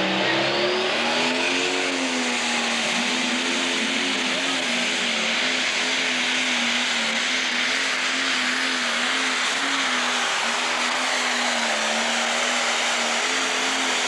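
Pro Stock diesel pulling tractor running flat out down the track during a pull. Its engine note climbs over the first couple of seconds, then holds steady with a slight waver.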